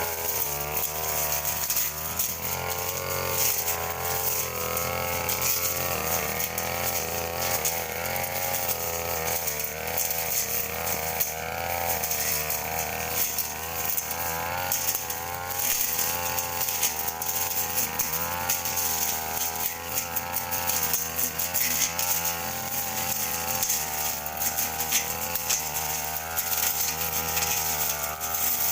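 Brush cutter running while cutting grass, its engine pitch wavering up and down as the load on the blade changes.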